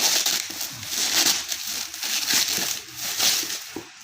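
Unboxing packaging crinkling and rustling as it is handled, in several irregular bursts.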